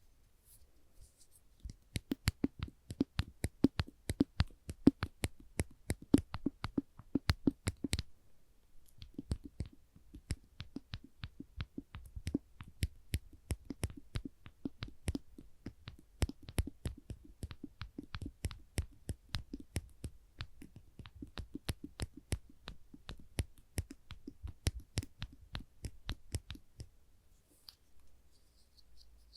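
Small orange-tipped spring clamps being squeezed and released over and over, a quick run of sharp clicks about four a second. The clicks are louder for the first several seconds, then go on more softly and stop near the end.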